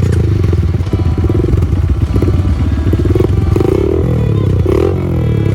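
Trail motorcycle engine running and revving, its pitch rising and falling with the throttle, with louder swells a few times near the end.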